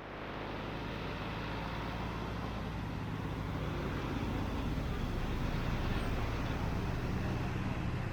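Steady road traffic: the rumble of passing vehicles' engines and tyres, swelling slightly over the first few seconds.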